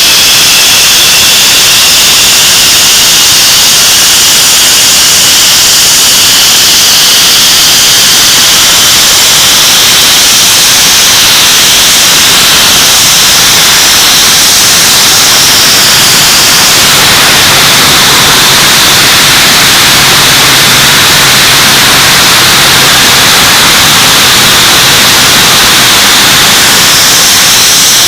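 English Electric Lightning's Rolls-Royce Avon turbojets running at power on a ground run: a loud, steady jet roar with a high whine that drifts slightly in pitch.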